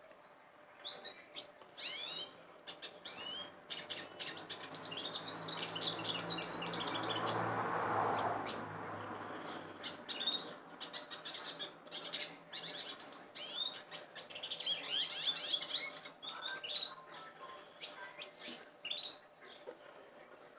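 Caged finches and canaries chirping, with two runs of fast twittering song. A rushing noise with a low hum swells and fades in the middle.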